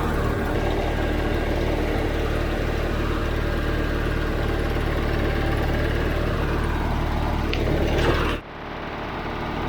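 Allis Chalmers HD5 bulldozer's GM two-stroke diesel engine running at a steady idle. About eight seconds in the sound drops off suddenly and comes back quieter.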